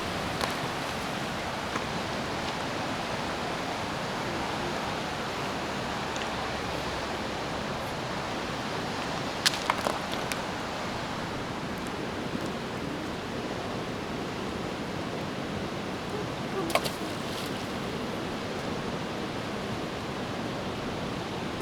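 Steady rush of the fast-flowing Katun, a mountain river churning past the bank. A few short sharp clicks sound over it about ten seconds in and again near seventeen seconds.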